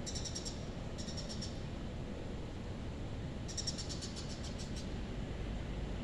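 A small bird calling in quick, high, pulsed trills: two short bursts about a second apart, then a longer one a few seconds in. Under it is a steady low background rumble of outdoor ambience.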